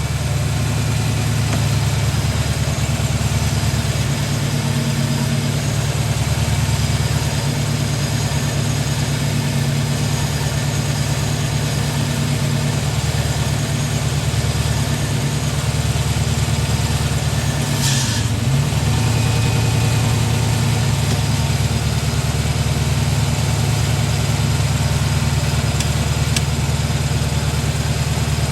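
Jeep CJ7 engine idling steadily. About two-thirds of the way through, the engine note dips briefly and a short, higher sound is heard.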